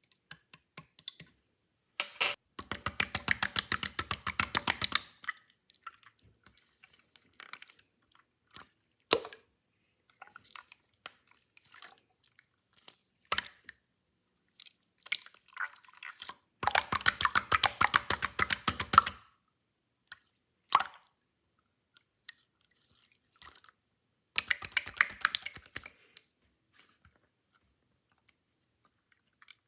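Clear slime being squished and pressed by hand: three dense runs of rapid wet crackling clicks, each a couple of seconds long, with scattered single pops and squelches in between.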